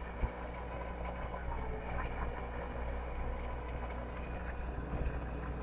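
Small dirt bike running at a steady low speed, its motor giving an even low hum under wind and ground noise.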